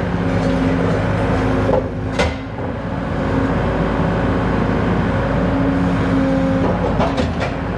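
Skid steer engine running steadily, with a sharp metal clank about two seconds in and a few more knocks near the end as the forks work under a steel plate.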